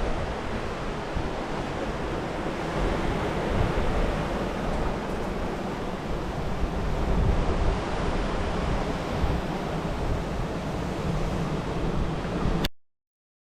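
Strong wind buffeting the microphone outdoors: a steady rushing noise with a gusting low rumble, which cuts off abruptly near the end.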